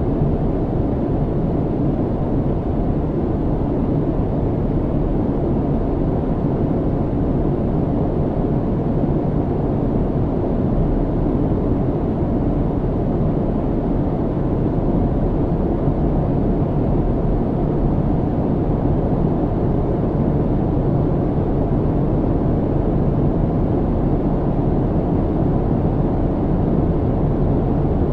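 Airplane cabin noise in flight: a steady, unchanging low rumble of engines and airflow, with a faint steady hum near the top of the rumble.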